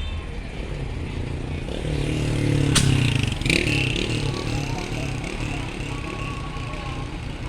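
Vehicle engines running in stalled traffic, one revving up louder about two seconds in and easing off, with two sharp knocks a moment apart near its peak.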